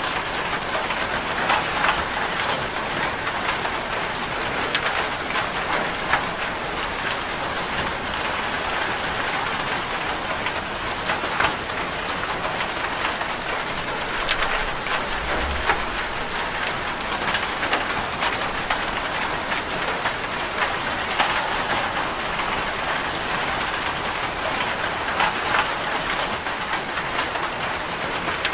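Steady rain falling on a surface: an even hiss with scattered sharp drips.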